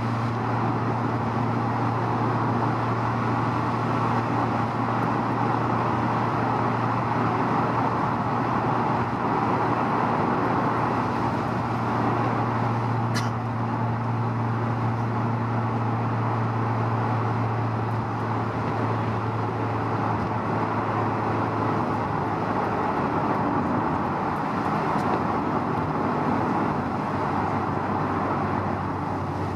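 Honda S2000's four-cylinder engine droning steadily at cruise, with a constant rush of tyre and road noise, heard inside the car. There is a single sharp click about 13 seconds in, and the engine note drops slightly near the end.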